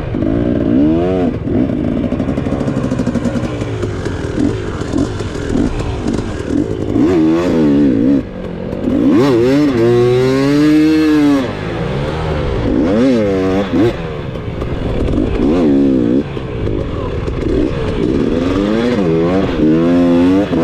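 Dirt bike engine revving up and down over and over, its pitch rising and falling every second or two.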